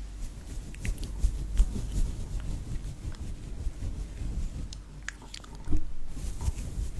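Close-miked ASMR handling sounds: irregular soft crunching clicks and low thuds against the microphone.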